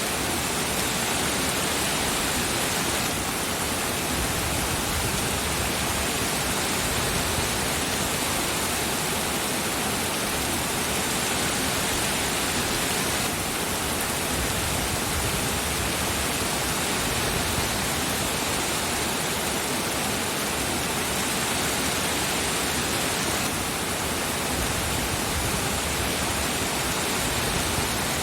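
Steady, heavy rain falling as a constant, even hiss with no single drops standing out.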